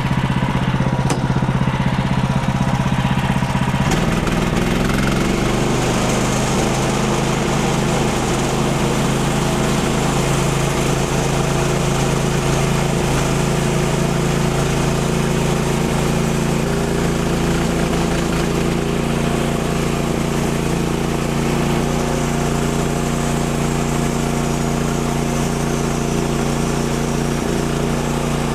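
The gas engine of a Woodland Mills HM130 Max portable bandsaw sawmill running steadily under throttle while the band blade saws through ash to cut a lap-siding board. The engine note changes about four seconds in, then holds steady.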